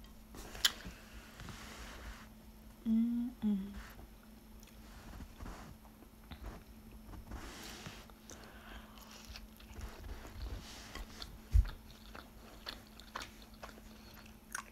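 Chewing and biting into a chicken burrito, with small wet mouth clicks and soft tortilla rustling. A brief hummed sound comes about three seconds in, and a single low thump near the end.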